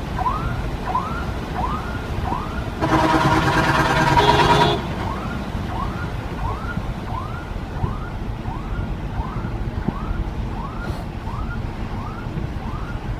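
A vehicle horn sounds loudly for about two seconds, over a short rising electronic chirp that repeats about every two-thirds of a second and a steady low rumble of traffic and rain.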